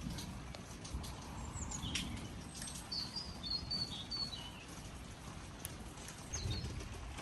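Birds chirping, with a short run of high chirps in the middle and another brief call near the end, over a steady low rumbling background noise.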